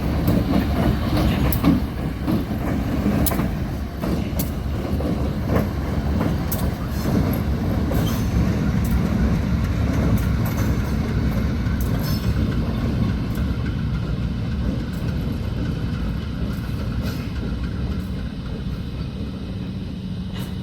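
Freight train rolling past: a steady low rumble with scattered sharp clicks of wheels over rail joints, the clicks thinning out and the sound easing slightly toward the end.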